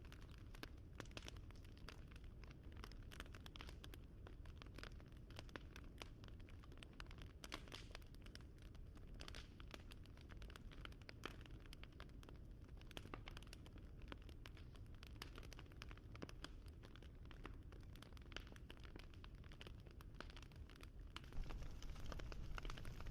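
Wood fire crackling: many small, irregular pops and snaps over a low rumble, growing louder about 21 seconds in.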